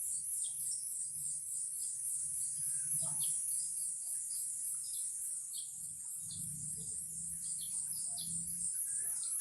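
Wild birds giving short scattered chirps over a steady, high-pitched pulsing drone, with a faint low rumble underneath.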